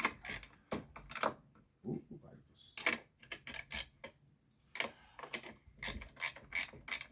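Irregular metallic clicks, clinks and rattles of a 13 mm wrench working the bar nut and chain of a small chainsaw as it is reassembled.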